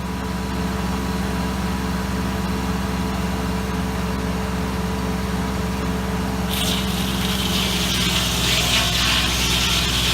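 Engine running steadily, with a hiss joining in about six and a half seconds in.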